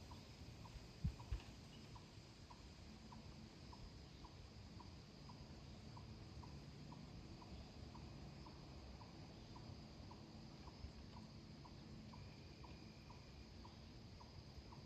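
Near silence of quiet woods, with a faint regular ticking about twice a second and two soft low thumps about a second in.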